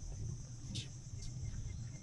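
Steady chorus of insects, a constant high-pitched buzz, over a low rumble, with one short higher sound a little under a second in.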